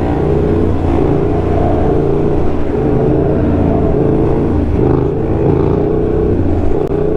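Motorcycle engine running at a fairly steady speed while being ridden, a continuous loud engine note with only small changes in pitch.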